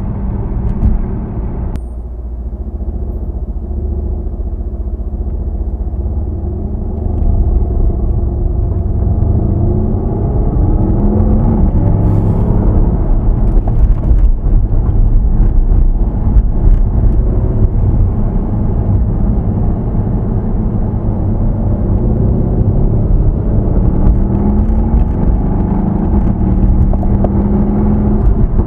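Mercedes-AMG C63 S (W205) twin-turbo V8 on its stock exhaust, driving with a low, steady rumble. The engine note rises in pitch as it accelerates, once about a third of the way in and again near the end.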